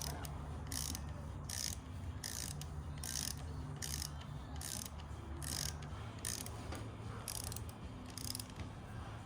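Ratchet wrench clicking in short strokes, about ten of them, one roughly every 0.8 seconds, as bolts are run in and tightened, over a steady low hum.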